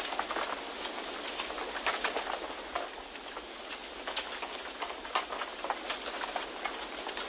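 Wind-and-rain ambience: an even rushing noise with many small, irregular drop taps scattered through it.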